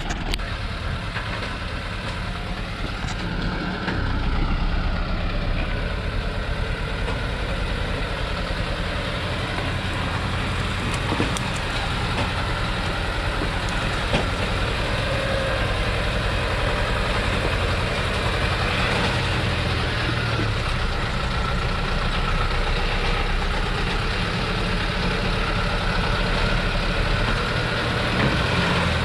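A heavy Thaco truck loaded with acacia logs, its engine running steadily, with a faint whine drifting up and down in pitch above it.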